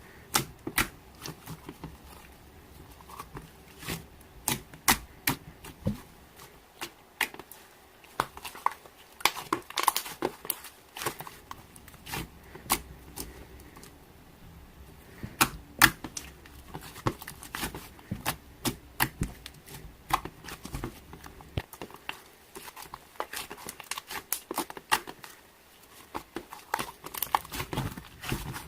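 Slime being squeezed and poked by hand, making irregular sticky clicks, pops and crackles as air pockets burst.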